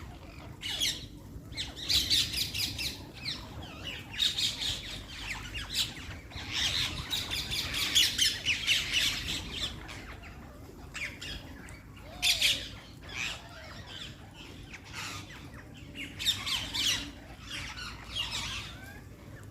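Parrot squawking repeatedly: harsh, raspy calls in irregular bursts, busiest around the middle.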